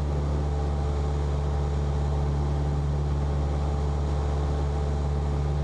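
Cessna 172P's four-cylinder Lycoming engine and propeller running with a steady drone.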